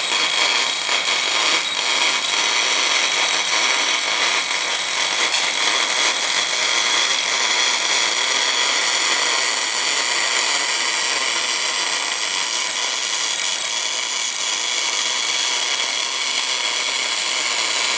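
MIG/MAG welding arc running steadily on cast iron as an even hiss and crackle. The arc sounds good, a sign that the wire feed and voltage are set right.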